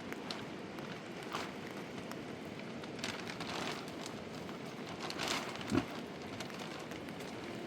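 Steady rain falling, with scattered sharp drips and ticks. A single dull thump comes about three quarters of the way in.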